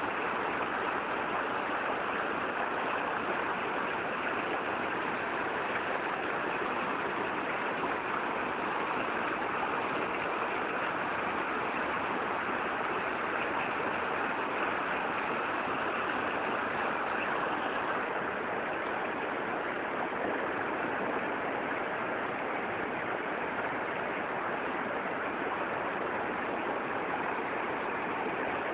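Steady rushing of flowing water, an even unbroken noise that eases slightly in level about two thirds of the way through.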